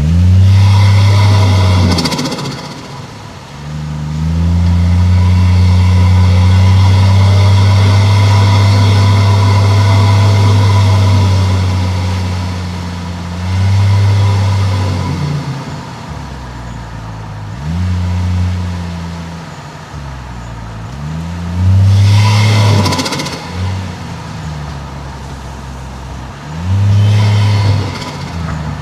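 Toyota 1JZ-GTE turbocharged straight-six engine and exhaust under hard acceleration, one long pull and then several shorter bursts of throttle, the pitch rising and falling. Short hissing bursts of turbo flutter come as the throttle is lifted.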